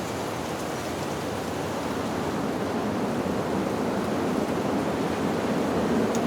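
Wind blowing through tree leaves, a steady rushing rustle that swells gradually louder.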